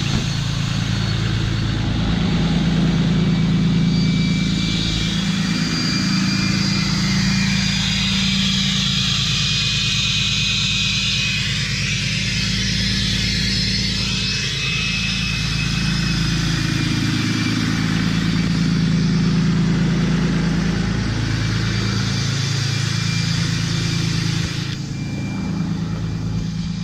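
6.7-litre Cummins turbo-diesel of a 2011 Ram 2500 running while warming up after a cold start, straight through a 5-inch turbo-back exhaust with no muffler. A thin, steady, high turbo whistle sits over the engine's drone, which shifts in pitch now and then.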